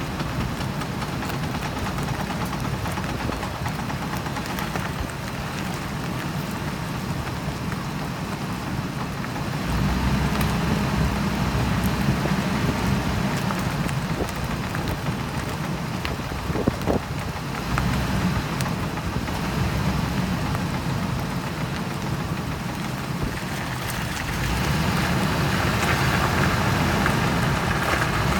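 Ford Expedition driving, a steady road and driveline rumble that swells twice, with scattered metallic clicks. The clicking is the sign of worn driveshaft U-joints.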